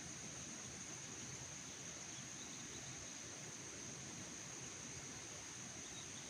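Insects chirring in one steady high-pitched drone that does not change, over an even background hiss.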